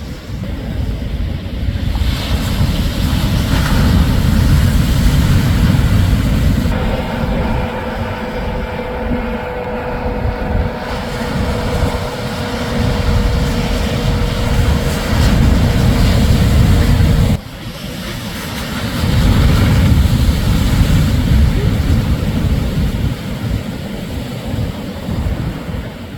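Shorebreak surf with heavy wind buffeting the microphone, a loud low rumble. A steady engine-like drone hums over it through the middle, and the sound drops suddenly about two-thirds of the way through before the rumble returns.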